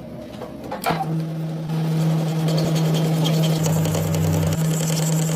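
A workshop machine's electric motor starts with a steady hum about a second in, then runs on with a rising mechanical whir, after a few light clicks.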